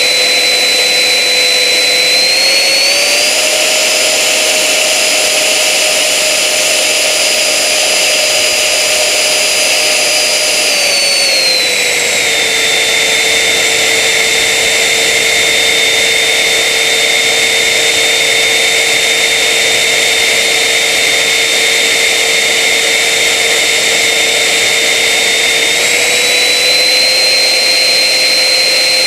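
Tornado 75 jet engine running on a ground test: a loud steady whine over a rushing roar. The pitch steps up slightly about two to three seconds in, drops lower around eleven to twelve seconds in, and rises again near the end as the throttle is moved between settings.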